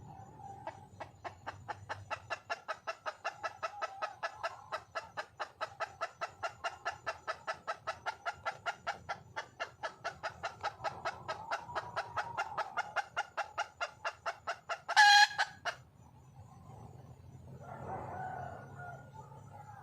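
Red junglefowl hen clucking in a fast, even series of about four clucks a second, a mating call to draw a male. About 15 seconds in there is one loud, short squawk, then softer calling.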